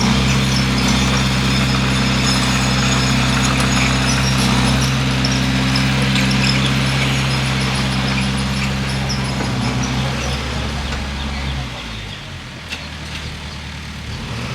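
Bulldozer's diesel engine running steadily, its low drone dropping away about eleven seconds in.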